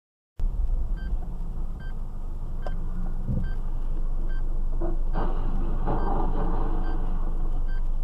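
A vehicle running with a steady low rumble, cutting in abruptly just after the start, while a short electronic beep repeats about every three quarters of a second. The road and engine noise grows somewhat louder and hissier about five seconds in.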